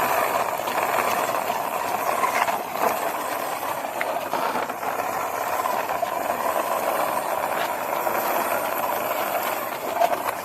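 Toy Lightning McQueen racing car pushed by hand along a wall: its small wheels roll with a steady rough hiss.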